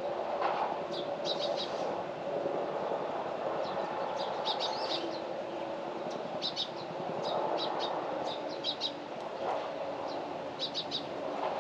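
Small birds chirping: quick clusters of three or four short high notes, repeated every second or two, over a steady low background rumble.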